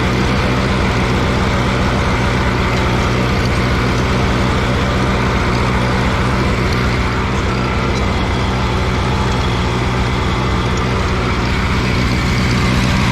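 Allis-Chalmers G tractor's small four-cylinder gasoline engine running steadily under load in first gear, pulling a lowered cultivator through the soil.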